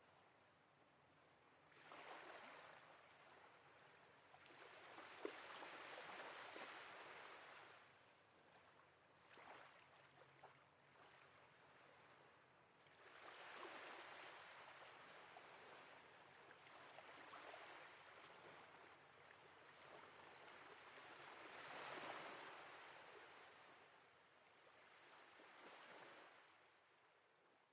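Faint sea waves washing in and out, swelling every few seconds, then fading out near the end.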